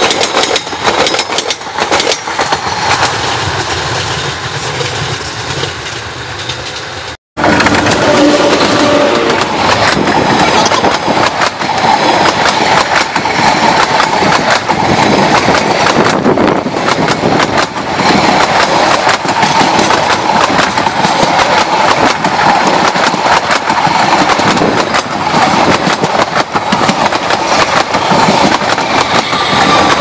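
Indian Railways passenger coaches rolling past close by: a steady rushing clatter of wheels on rail. The sound cuts out for an instant about seven seconds in and comes back louder.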